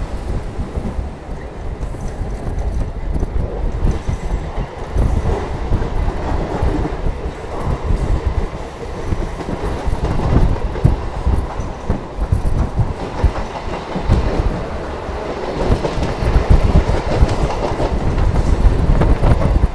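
Chennai suburban EMU local train running along the line: the wheels rumble and clatter over the rail joints, and the sound grows louder near the end.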